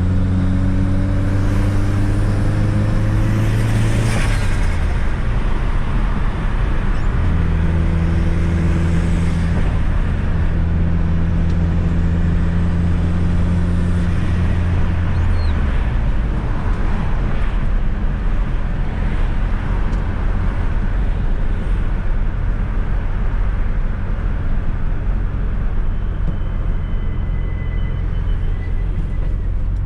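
1995 Fiat Coupe 2.0 16V Turbo's engine heard from inside the cabin, running at a steady cruise. The throttle lifts about four seconds in, with a short hiss, and again about halfway through; after that the car coasts with a steady rumble of road and tyre noise.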